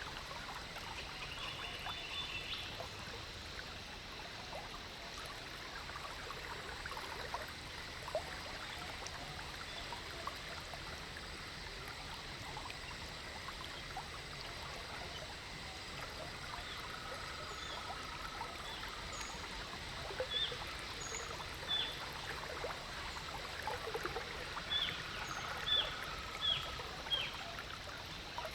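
Lake water lapping and trickling steadily against a slowly cruising boat. Short high chirps come one after another in the last several seconds.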